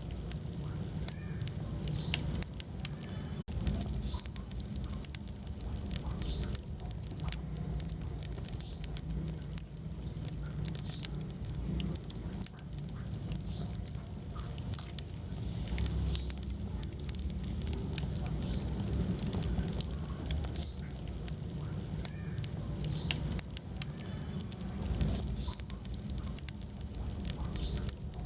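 Wood fire burning in a fireplace, crackling with many sharp pops over a steady low rumble of the flames.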